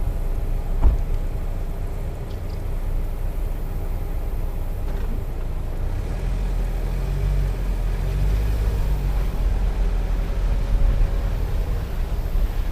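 Motor vehicle running at low speed, a steady low rumble of engine and tyres, with a single knock about a second in.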